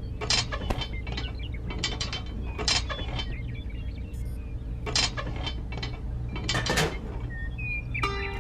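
Irregular small clicks and clacks of a little mechanism over a steady low hum. Plucked-string music comes in near the end.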